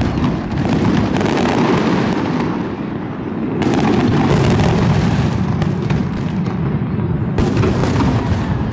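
Aerial shells of a professional fireworks display bursting in quick succession: a continuous rumble of deep booms with crackling reports. A fresh volley of loud bangs comes about three and a half seconds in, and another near the end.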